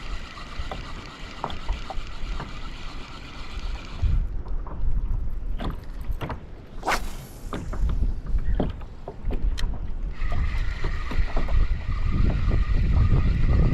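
Wind gusting against the microphone on a kayak, with irregular small knocks and slaps of water against the hull.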